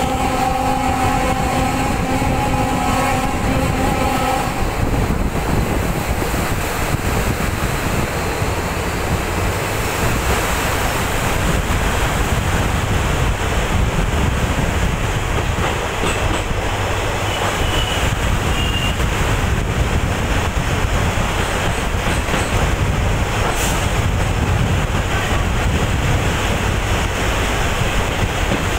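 Train horn sounding one steady note for the first four seconds or so, over the running noise of a train crossing a bridge. After the horn stops, the steady rumble and rattle of the moving train continues.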